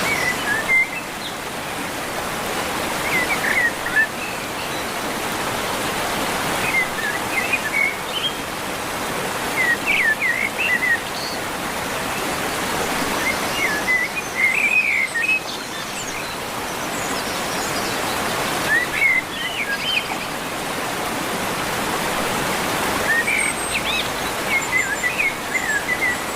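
Steady rush of flowing river water, with a small bird chirping in short runs every few seconds.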